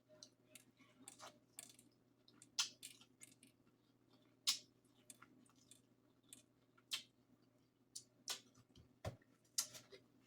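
Close-miked eating sounds: irregular wet clicks, smacks and crunches of chewing and mouth noises, with the sharpest ones a few seconds apart.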